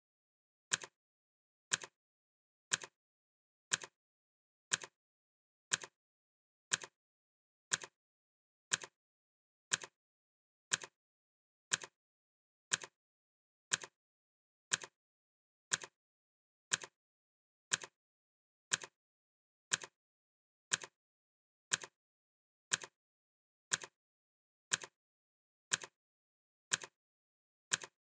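Clock ticking sound effect: one crisp tick every second, evenly spaced, with silence between ticks.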